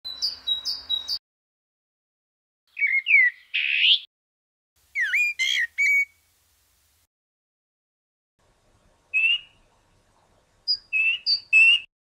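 Great tit singing its quick repeated two-note phrase ('pitié pitié pitié') for about a second, followed by several short whistled bird phrases with gliding notes, separated by silent pauses.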